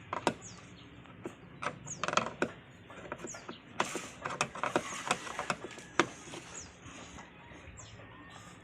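Irregular mechanical clicks, knocks and rattles as a washing machine with a stuck motor is worked on by hand, with small birds chirping in the background.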